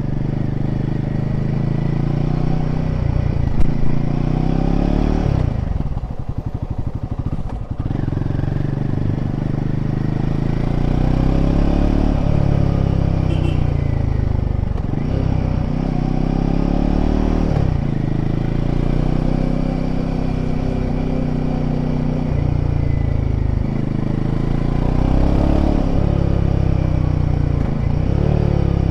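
Royal Enfield Himalayan 450's single-cylinder engine under way, its pitch rising as it pulls and dropping again at each gear change, several times over. About six seconds in, the throttle closes and the engine runs low and slow for a couple of seconds before pulling again; a single sharp knock sounds shortly before that.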